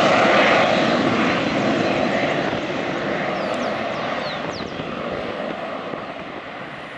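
Jet airliner's engines, loud at first and fading steadily as the aircraft moves away.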